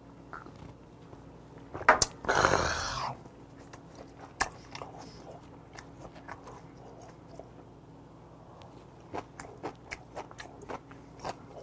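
Close-up mouth sounds of a man eating raw yellowtail sashimi: wet chewing and lip smacks coming as scattered soft clicks. About two seconds in, a sharp clack and then a loud breathy exhale lasting about a second, right after a shot of soju.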